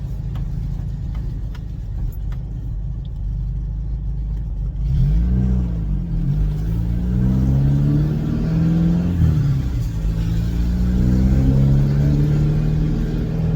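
Ford Cortina P100 pickup's 1.6 Pinto engine running on the road with its patched-up exhaust: a steady low rumble, then from about five seconds in the revs climb and fall back several times as it accelerates. The exhaust is still respectably loud.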